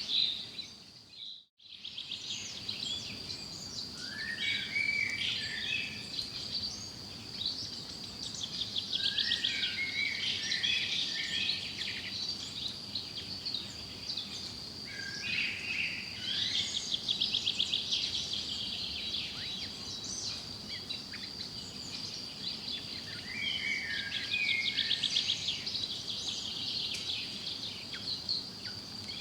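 Forest songbirds singing in repeated short phrases and rapid trills over a steady high-pitched insect trill. The sound drops out almost to silence for a moment about a second and a half in.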